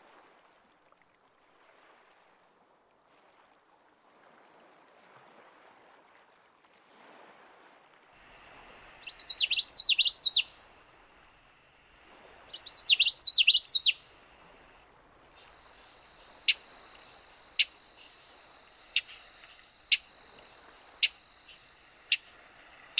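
A songbird sings two short songs of rapid repeated high notes a couple of seconds apart, then gives a series of sharp single chip notes about a second apart. A thin steady high tone runs underneath.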